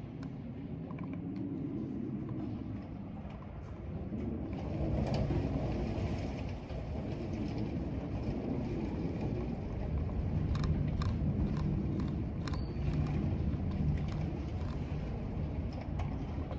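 Storm wind gusting through a corridor: a low rushing rumble that swells and eases in gusts. A few scattered keyboard clicks come through, mostly past the middle.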